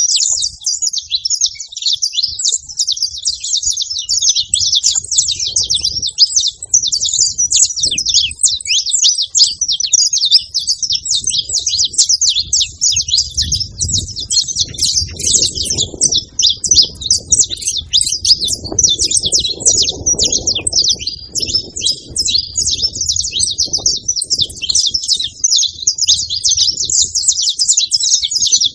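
Saffron finch singing: a long, unbroken stream of rapid, high chirps.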